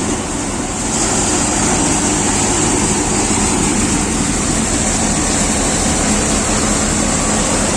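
Tractor engine running steadily under a constant low drone, a little louder from about a second in.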